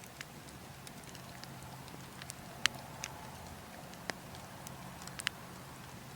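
Burning logs crackling, with scattered sharp pops and snaps, the loudest about two and a half seconds in and a quick pair near the end, over a steady low wind rumble.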